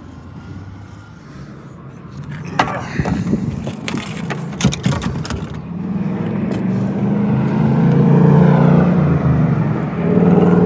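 A series of sharp knocks and clatters, then a motor vehicle's engine running, growing louder about six seconds in.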